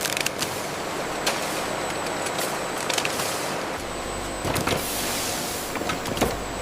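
Steady machinery running noise with scattered light clicks and knocks, and a faint steady high whine.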